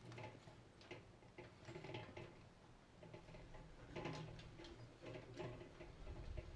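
Faint, irregular clicks and light taps, several a second, over a low rumble.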